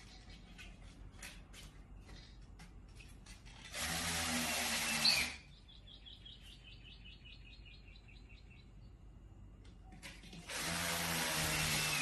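A small electric motor, like a power drill, running in two short bursts of about a second and a half each, with a few clicks before the first.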